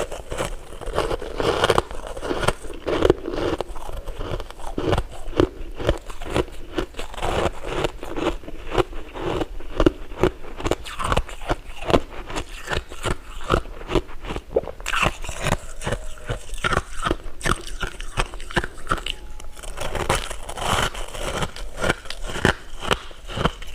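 Close-miked eating: a steady run of crunching bites and chewing, many sharp crackles a second.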